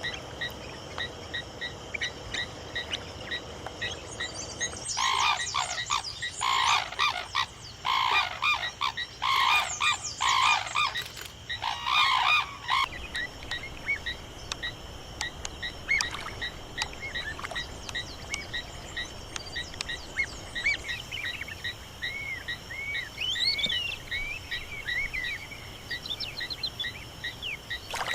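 Outdoor chorus of small animal calls: a steady run of short, evenly repeated chirps throughout, with a dense flurry of louder calls from about five to thirteen seconds in and arching, rising-and-falling chirps near the end.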